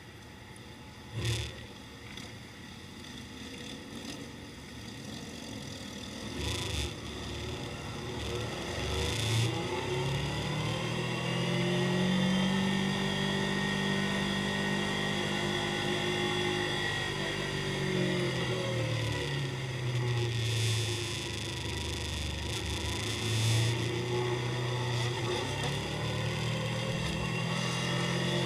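Motorcycle engine running. It grows louder over the first ten seconds, its pitch sags about two-thirds of the way through and rises again near the end. A short sharp click comes about a second in.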